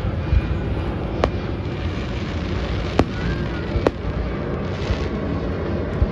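Aerial fireworks bursting: a handful of sharp cracks, a second or two apart, over a continuous low rumble of booms.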